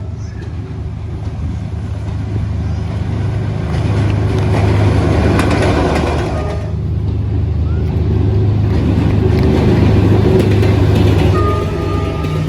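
D19E diesel-electric locomotive's engine running steadily as the train pulls in, swelling louder twice, with a brief thin high tone about halfway through and again near the end.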